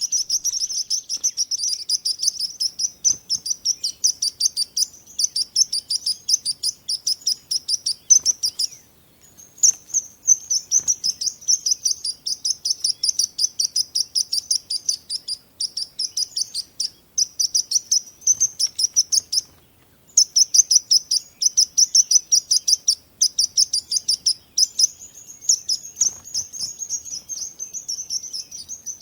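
Small songbirds chirping in fast, high-pitched trills, several chirps a second, breaking off briefly about nine and twenty seconds in.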